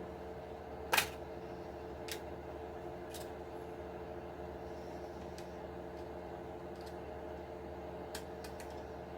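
Small tools and plastic body parts clicking as an RC truck is taken apart: one sharp click about a second in, then a few fainter clicks, with a steady electrical hum underneath.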